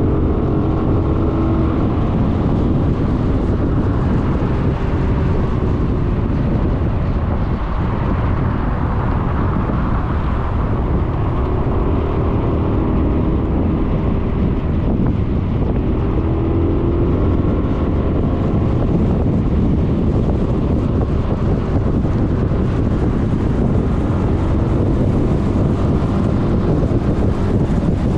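Suzuki Burgman 400 scooter's single-cylinder engine running at riding speed, its note rising and falling a little, under wind rushing over the microphone.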